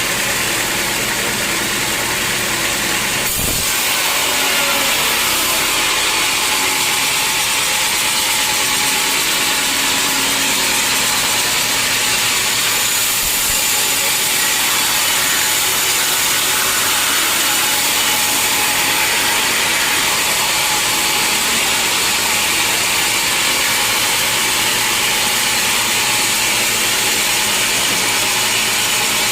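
Sawmill machinery running steadily, with the sound of sawing wood, and one sharp knock a few seconds in.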